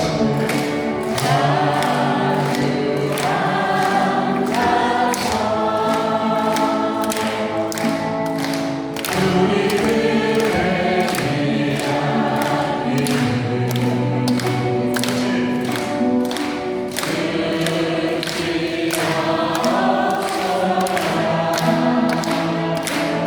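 Two male voices singing a Korean popular song in harmony over musical accompaniment with a steady beat.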